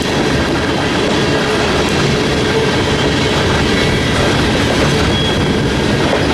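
Freight train rolling past, a loud, steady run of rail cars on the track with no break or change.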